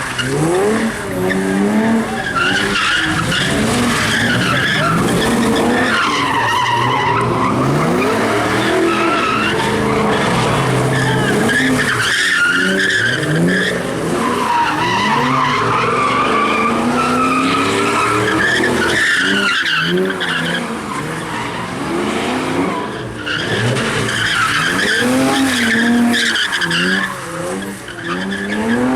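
A car doing donuts: its engine revs up and down again and again at high rpm while the tyres squeal and skid without letup.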